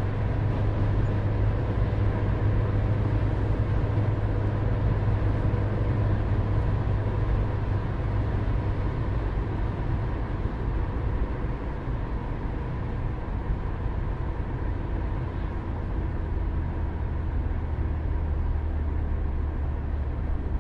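A car driving along, with a steady low engine drone and road rumble. The drone drops slightly in pitch and loudness about halfway through.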